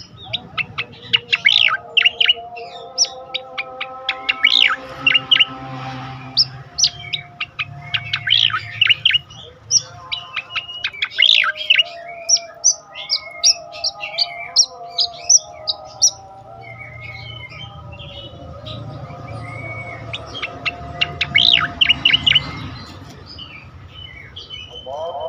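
Sooty-headed bulbul (cucak koreng) singing: quick clusters of sharp chirps and short whistled notes, packed close together. A fainter layer of steady lower tones runs underneath.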